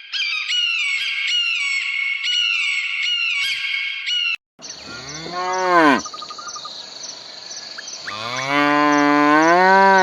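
Quick repeated high chirps, each falling in pitch, then after a brief break a cow mooing twice, a short rising-and-falling moo and then a longer, louder one, over a steady high insect whine.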